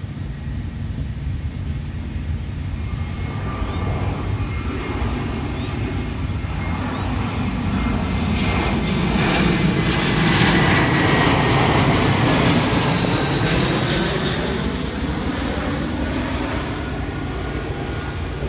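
Airbus A319-112's CFM56 jet engines as the airliner passes by on landing, growing louder to a peak about ten seconds in and then easing off. A high engine whine drops in pitch as it goes past.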